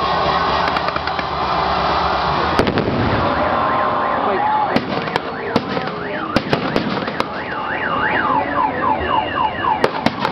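Fireworks going off in sharp bangs and crackles over a steady crowd hubbub. From about seven seconds a loud tone sweeping rapidly up and down, like an alarm, joins the bangs.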